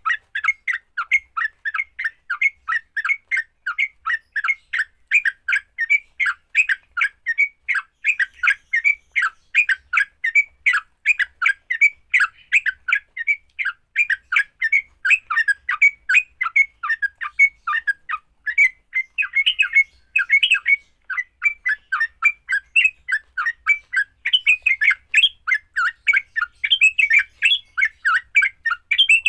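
Yellow-vented bulbuls (trucukan) giving harsh, rapid fighting calls: short, sharp notes repeated about three times a second without a break. These are aggressive, territorial calls of the kind used to provoke other bulbuls into calling.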